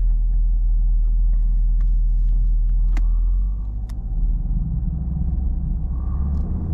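Chevrolet Camaro's 6.2-litre LT1 V8 running with a steady low rumble. About halfway through, its note drops and turns uneven as the car begins to pull away in snow, with a couple of faint clicks.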